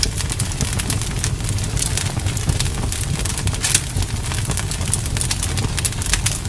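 Bonfire crackling, with dense, irregular sharp pops and snaps over a steady low rumble.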